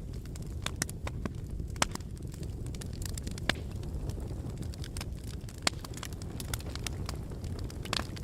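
Wood fire burning in a fireplace: a low, steady rumble of flames with sharp, irregular crackles and pops. The loudest pops come just under two seconds in and about three and a half seconds in.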